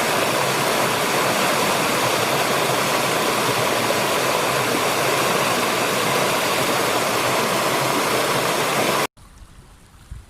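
Loud, steady rush of fast-flowing river water that cuts off suddenly about nine seconds in. A much quieter low rumble follows.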